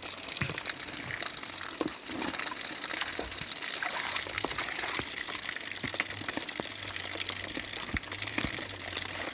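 Steady rush of water with many small splashes and knocks scattered through it, over a faint low steady hum.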